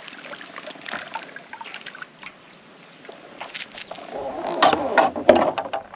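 Water splashing and dripping at the side of a kayak, with scattered clicks and knocks from handling. It is quieter in the middle and busiest and loudest in the last two seconds.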